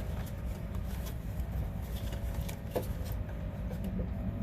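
A few small clicks as a screwdriver tightens wire terminal screws on a replacement HVAC contactor, over a steady low background rumble.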